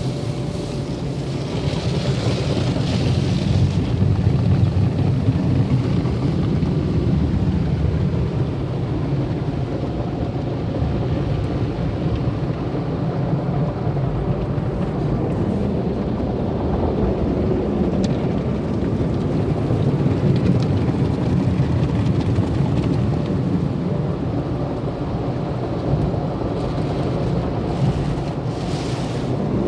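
Tunnel car wash equipment running: a steady rumbling wash of water spray and machinery working over the car.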